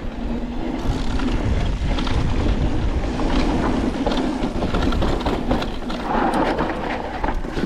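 Full-suspension e-mountain bike descending a rocky dirt trail: a steady rush of tyre and trail noise with many small knocks and clatters from the bike going over rocks.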